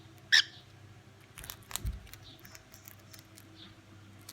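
A cockatiel gives one short, sharp chirp. A few faint clicks and a soft knock follow, over a steady low hum.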